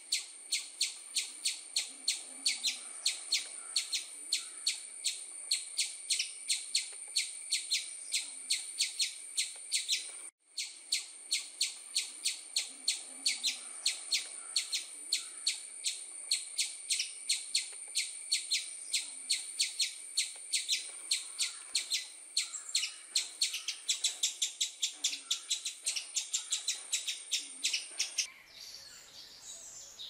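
Small bird chirping in a fast, even series of short high-pitched calls, about three a second and quickening later on, with a brief break about ten seconds in. Near the end the series stops and a softer, more varied birdsong takes over.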